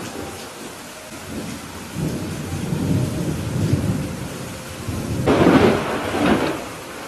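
Steady rain with thunder. A low rolling rumble builds about two seconds in, then a louder, sharper thunderclap comes a little after the five-second mark and fades.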